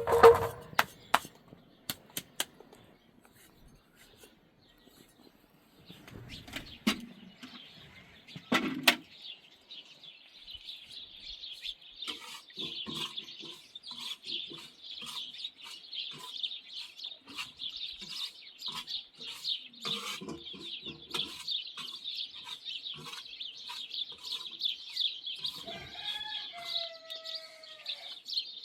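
A few sharp knocks and clicks, then from about ten seconds in a dense, continuous chorus of rapid high-pitched chirping from many small birds. A short falling animal call sounds near the end.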